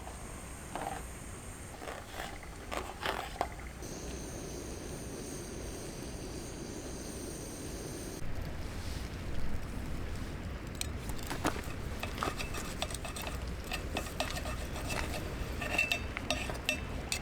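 Metal cutlery and cookware clinking and scraping: a scatter of light clicks and knocks, busier in the second half.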